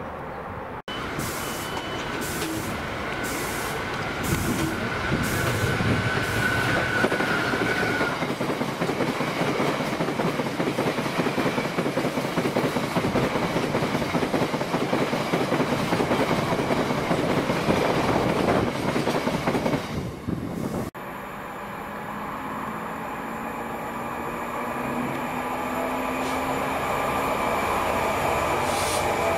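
Freight train of bogie tank wagons rolling past close by: a steady rattle and clatter of wagon wheels on the rails. After a sudden cut, a Class 66 diesel-electric locomotive approaches hauling box wagons, its engine hum growing louder.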